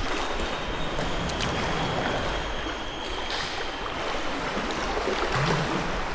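Sea water sloshing and lapping around kayaks inside a sea cave tunnel, with a few small drips and paddle splashes.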